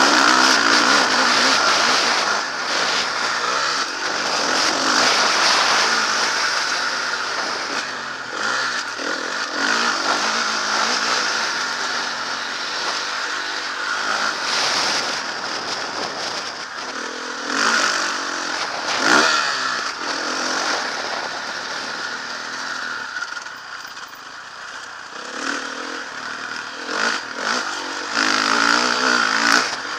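Motocross bike engine revving up and down as it is ridden round a dirt track, rising and easing off repeatedly.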